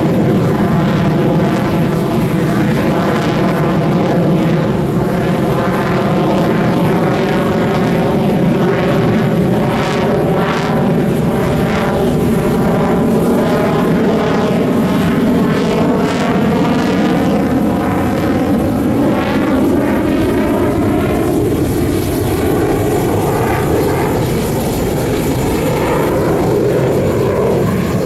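Sukhoi jet fighters flying an aerobatic display: loud, steady jet engine noise throughout, its tone slowly sweeping and swirling as the aircraft pass and turn.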